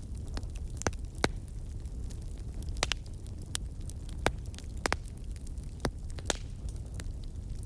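Wood campfire crackling: sharp, irregular pops about once or twice a second over a steady low rumble.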